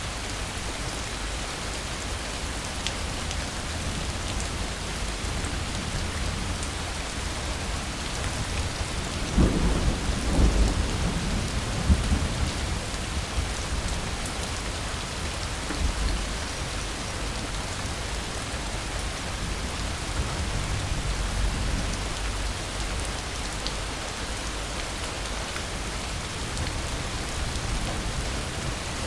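Steady rain falling, with a roll of thunder about nine seconds in that swells for a few seconds and fades, and fainter low rumbles later on.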